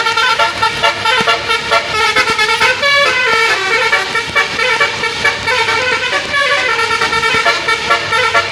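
Multi-tone musical vehicle horn playing a continuous melody of rapidly changing notes.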